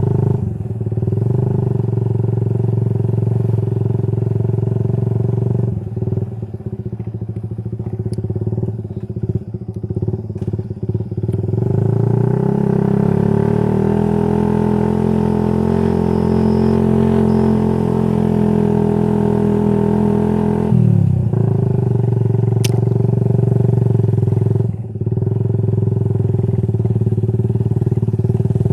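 Motorcycle with an aftermarket racing exhaust running under way. Its note is uneven for a few seconds, then rises about twelve seconds in, holds, and drops suddenly just after twenty seconds.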